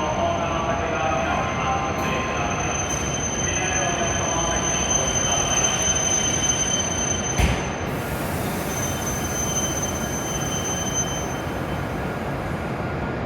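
E7-series Shinkansen train moving at a station platform, a steady running noise with a high-pitched whine and shifting tones in the first half. There is a single sharp knock about seven and a half seconds in.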